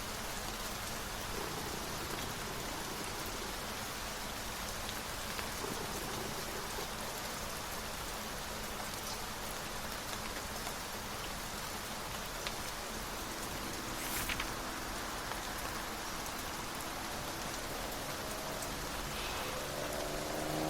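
Steady rain falling, an even hiss of drops, with a brief soft rustle about two-thirds of the way through. A faint hum that rises in pitch creeps in near the end.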